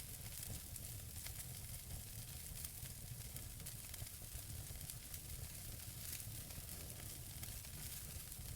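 Wood fire burning in a fireplace: steady low hiss with frequent small crackles and pops from the burning logs.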